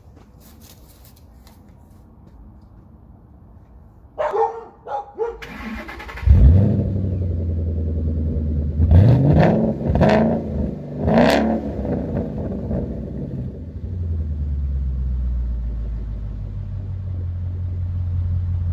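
A car engine starts about six seconds in, is revved three times in quick succession, then settles into a steady idle.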